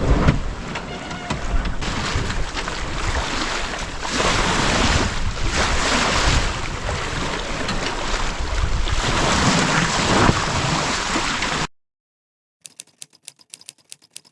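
Wind buffeting the microphone and sea water rushing around a sailing yacht under way, swelling and easing in gusts. It cuts off abruptly about twelve seconds in, followed by a quick run of faint clicks.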